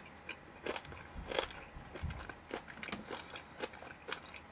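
Close-up chewing of a mouthful of hashed beef and rice, irregular mouth clicks; the stew beef is sinewy. A couple of low thumps come about one and two seconds in.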